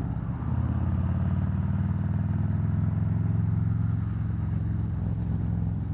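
2024 Harley-Davidson Road Glide's V-twin running under way. It picks up louder about half a second in as throttle is added, then holds a steady pitch.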